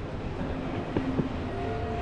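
Moka Railway diesel railcar running: a steady low rumble with several steady tones, and two sharp clicks about a second in.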